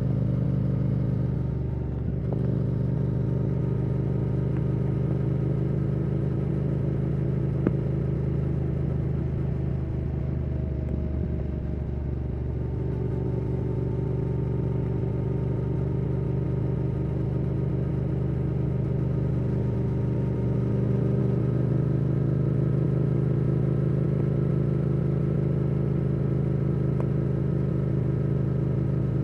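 Yamaha R7's CP2 parallel-twin engine through a Yoshimura R77 exhaust, running at a mostly steady cruise. The revs ease off slightly about two seconds and about twelve seconds in, then pick up a little past twenty seconds.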